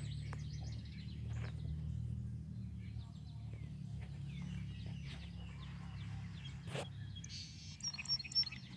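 Songbirds chirping and singing in short scattered calls over a steady low background hum, with a few sharp clicks near the end.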